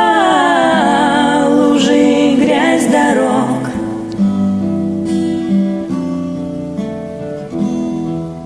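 A woman's sung note held and bending for about the first three seconds, then an acoustic guitar backing track playing on alone in picked notes.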